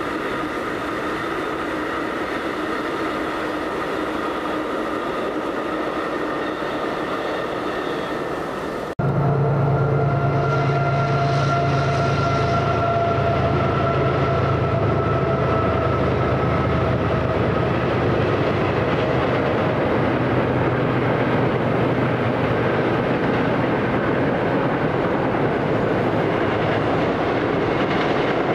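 A train running by, a steady rumbling noise with a few held tones. About nine seconds in the sound changes abruptly and gets louder, with a strong low drone and tones that slowly fall in pitch as the train passes.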